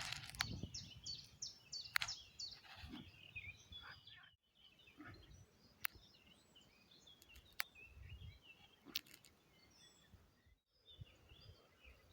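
Faint outdoor birdsong: many small birds chirping, with a quick run of repeated high notes near the start, a few sharp clicks and a low rumble underneath.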